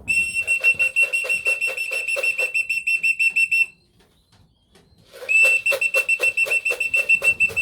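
A trilling whistle blown in two long blasts, pulsing about five times a second, to call racing pigeons in to the loft to feed.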